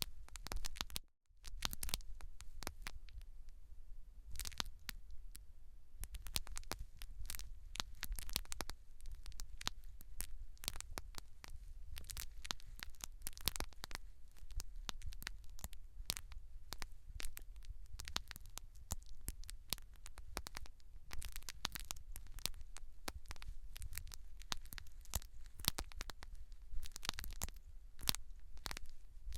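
Close-miked ASMR hair and scalp handling: dense, irregular crackling and scratching over a low rumble. The sound cuts out briefly about a second in.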